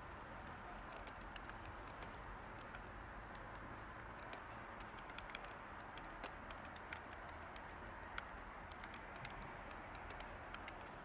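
Light computer keyboard typing, irregular soft key clicks over a steady white-noise hiss.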